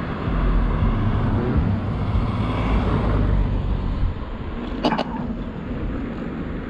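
Road traffic: a vehicle passes with a low rumble that builds and fades over about four seconds. Two sharp clicks follow close together about five seconds in.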